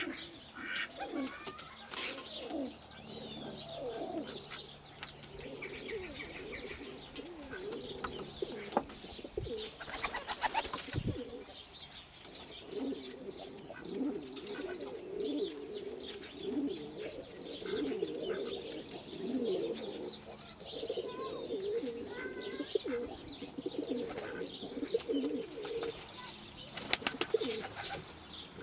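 Birds calling: a steady run of low, wavering calls, with a few sharp clicks about a third of the way in and near the end.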